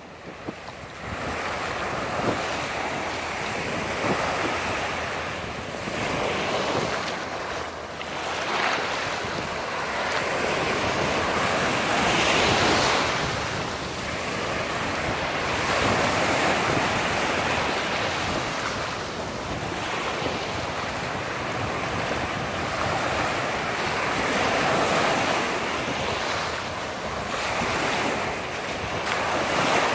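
Mediterranean Sea waves washing in, the surf swelling and fading every few seconds, with wind rumbling on the microphone.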